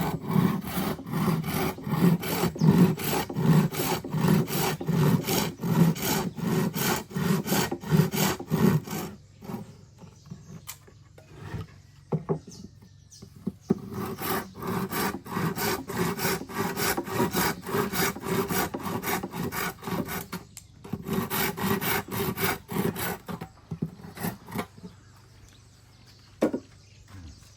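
Hand saw cutting wood in quick, even back-and-forth strokes. The sawing stops for a few seconds about nine seconds in, starts again, and thins to a few scattered strokes near the end.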